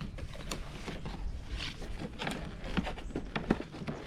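Handling noise from a boxed toy train set being opened and its packaging sorted through: scattered light clicks, taps and rustles at an uneven pace.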